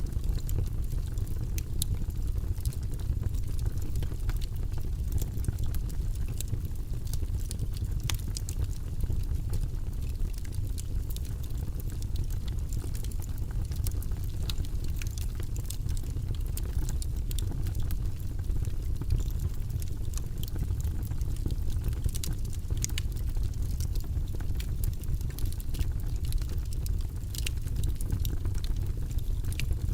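Wood logs burning in a fireplace: a steady low rumble of flames with frequent sharp crackles and pops scattered throughout.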